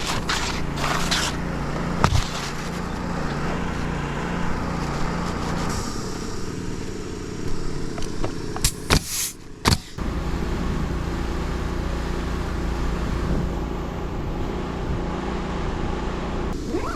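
Steady low motor hum, with a few sharp clicks or knocks: one about two seconds in and two close together around the middle.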